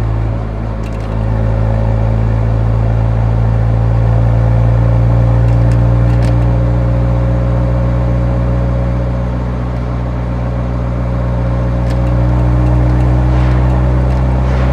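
Nissan 180SX's exhaust note heard while driving, the engine running at a fairly steady cruising speed. It eases off slightly about a second in and again briefly around the middle, then picks back up.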